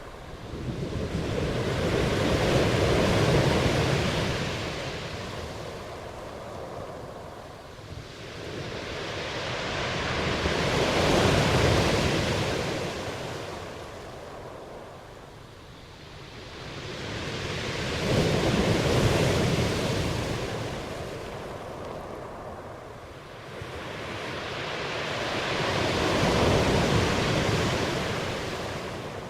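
Ocean waves surging in slow swells: four waves, each rising over a few seconds and washing back out, about eight seconds apart.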